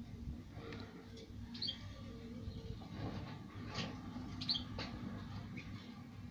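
A small bird chirping in the background: a few short, high chirps, about one and a half seconds in and again after four seconds, over low background noise with a few faint knocks.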